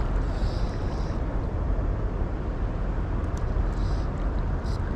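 Steady rushing noise of a flowing river, heaviest in the low end, with a few faint brief high ticks.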